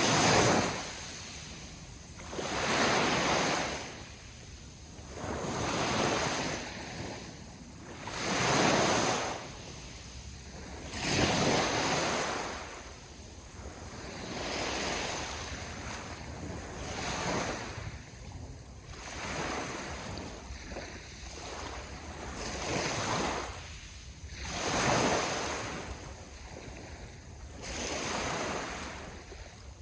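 Ocean waves washing onto the shore, each surge swelling and falling away every two to three seconds.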